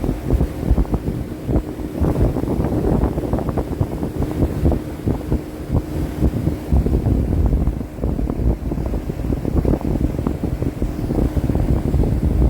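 Wind buffeting the microphone in loud, uneven low rumbles, with a faint steady hum underneath that stops about halfway through.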